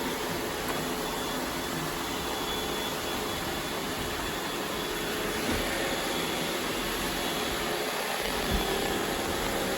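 Robot vacuum running steadily, picking up confetti, with a faint steady whine over its motor noise and a light knock near the end.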